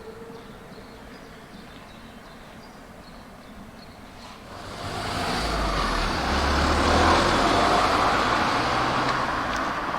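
A motor vehicle approaching and passing, with a low engine note; it swells up from about halfway through and is loudest a couple of seconds later.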